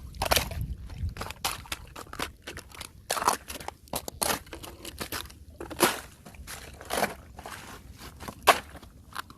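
Thin fresh ice crunching and cracking as it breaks, in a run of irregular sharp crunches, a few of them louder.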